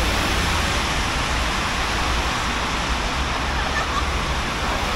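Steady hiss of rain mixed with traffic on wet roads, with a low rumble underneath.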